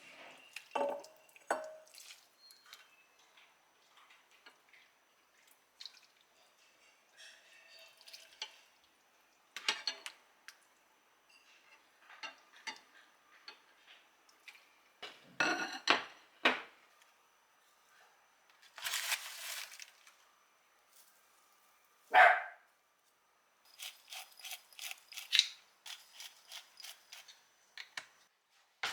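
Dishes and utensils clinking and knocking in scattered bursts, with a brief rush of noise about two-thirds through and a single louder sharp sound shortly after.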